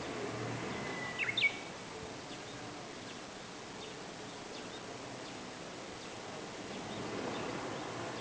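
Japanese bush warbler singing one short phrase about a second in: a held whistle followed by quick higher notes. Faint brief chirps follow later, over steady outdoor background noise.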